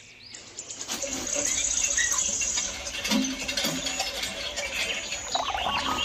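Birds chirping, with scattered short high calls and a rapid high trill about a second in.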